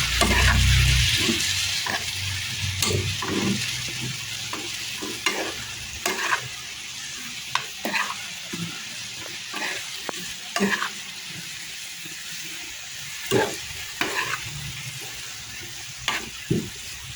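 Food sizzling in a frying pan while a utensil stirs it, with irregular scrapes and taps against the pan every second or so. The sizzle slowly dies down.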